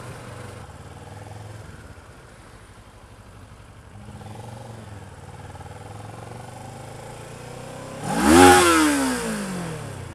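Motorcycle engine running steadily on the road. About eight seconds in, a loud engine note sweeps sharply up in pitch and then falls away over about two seconds.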